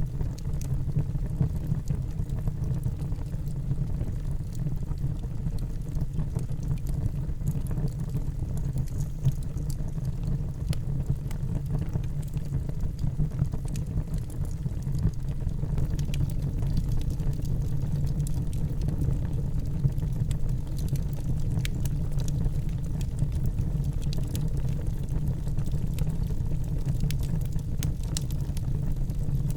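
Wood fire burning in a fireplace: a steady low rumble of the flames with frequent small crackles and pops from the burning logs, more of them in the second half.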